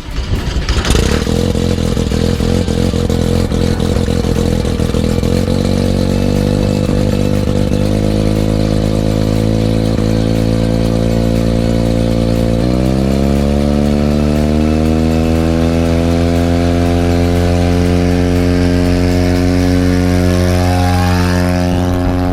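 Mustang II's Mazda rotary turbo engine (from an RX-7) running with a steady, loud drone. About thirteen seconds in its pitch steps up, then keeps climbing slowly as the engine is run up.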